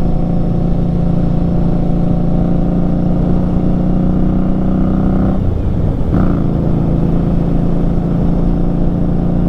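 A 2018 Indian Scout Bobber's V-twin running loud through Vance & Hines slash-cut mufflers while riding, with a steady exhaust note. About halfway through the note dips briefly, then picks up again.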